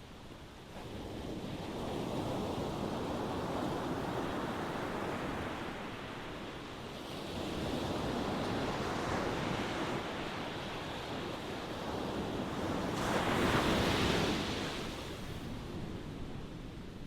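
Ocean waves breaking and washing in, a steady rushing surf that swells in several surges, the biggest about two-thirds of the way through, before easing off.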